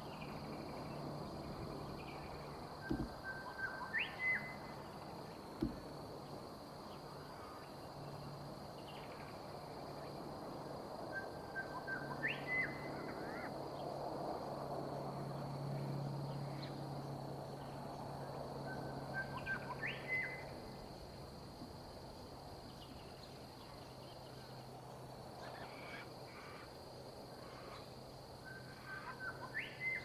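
A bird calls four times, about every eight seconds; each call is a short steady note followed by a quick upward-sweeping whistle. Under it runs a steady high insect drone and a faint low hum, with two low thumps in the first six seconds.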